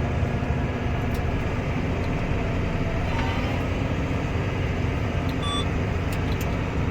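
Case 140 tractor engine running steadily while the tractor drives off, heard from inside the cab. About five seconds in comes a short electronic beep: the transmission's shift alert, which sounds when the wrong button is used to change gears on its 16-speed powershift.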